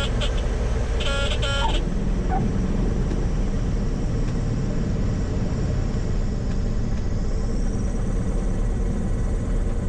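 Stall warning horn of a Grumman AA-5B Tiger sounding in short, rapid pulses for the first couple of seconds, then stopping, over the steady drone of the engine and cabin. The horn is the sign that the plane is near stall speed in the landing flare.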